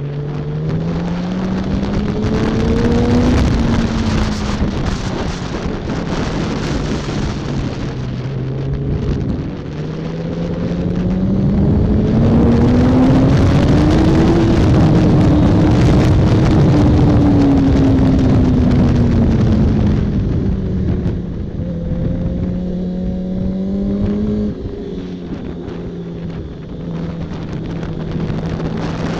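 2007 Yamaha R1's inline-four engine at racing pace, heard onboard over heavy wind rush. The revs climb over the first three seconds, hold lower through a bend, then rise in a long pull to a peak about fifteen seconds in and ease off, with a sudden step down in engine note about twenty-four seconds in.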